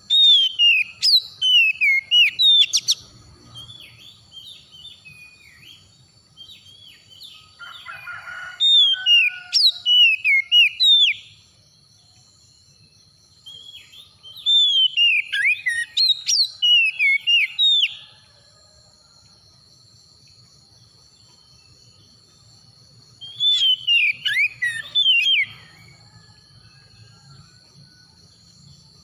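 Oriental magpie-robin (kacer) singing: four bursts of loud, quick whistled phrases of sliding notes, with pauses and softer calls between them.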